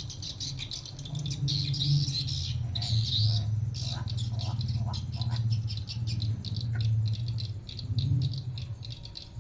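Pet crow calling in several short bouts over a steady low hum.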